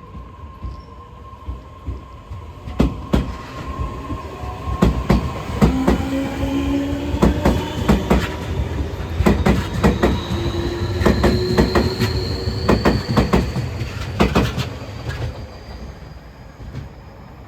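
Tobu 60000-series electric train pulling away and accelerating: the traction motor inverter whine climbs steadily in pitch while the wheels clack in quick groups over rail joints, getting louder mid-way and fading as the train moves off.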